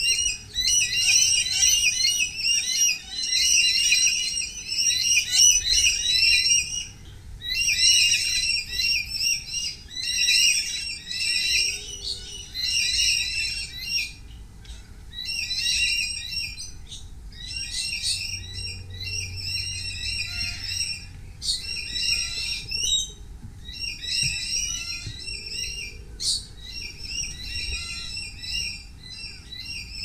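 Birds chattering and calling in rapid, warbling runs of a few seconds each, broken by short pauses, louder in the first half.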